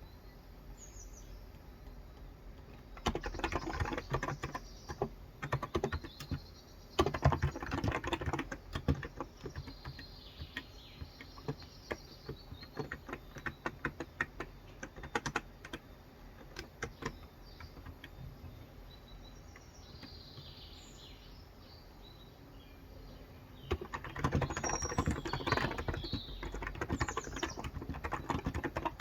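Typing on a COX Endeavour tenkeyless keyboard with 35 g electro-capacitive (Topre-style) switches: quick runs of keystrokes about three to nine seconds in and again from about 24 seconds, with scattered single keystrokes between. Birds chirp faintly in the background.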